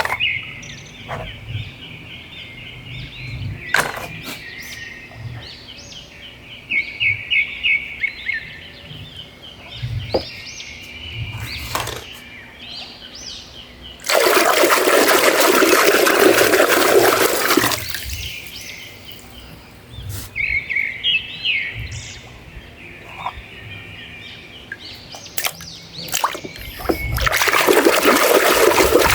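Water spraying onto muddy miniature toy models in two bursts, the first lasting about four seconds in the middle, the second starting near the end. Between them, quieter bird-like chirps and scattered clicks.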